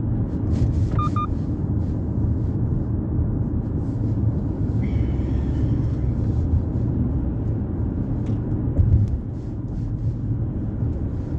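Steady low rumble of road and engine noise inside a moving car's cabin, with a faint short high tone about a second in and another, lasting about a second, around five seconds in.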